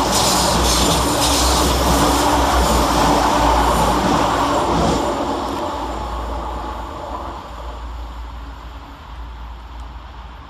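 Two coupled Class 172 Turbostar diesel multiple units running past, loud at first, with a few wheel clicks early on, then fading steadily away.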